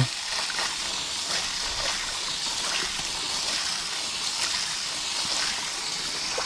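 Steady spray of water from a garden hose nozzle, rinsing the coil of a central air conditioner's outdoor unit.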